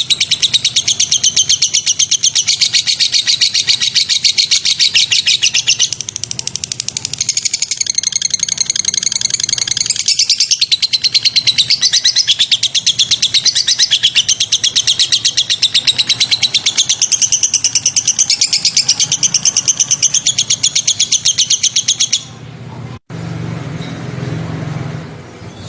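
Recorded songbird calls: a fast, unbroken string of sharp, high chirps that stops about 22 seconds in, followed by a brief dropout and a quieter low hum. A looped tutor recording of the kind played to train caged songbirds.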